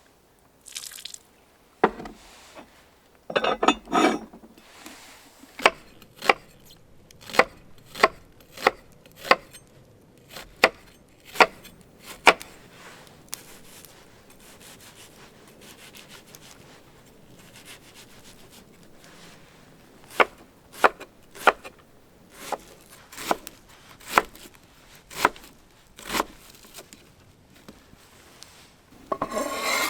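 Knife chopping on a wooden cutting board: single sharp strokes about one to two a second, in two runs with a pause between them.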